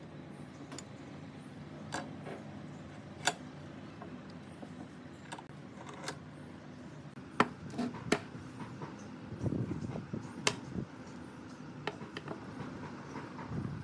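Irregular clicks and taps of small hard parts and tools being handled, about a dozen spread unevenly, with a brief low rustle of handling about nine and a half seconds in.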